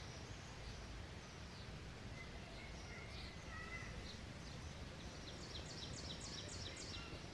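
Small songbirds chirping, with a few lower whistled notes in the middle and a quick run of high chirps, about five a second, near the end, over a steady low outdoor rumble.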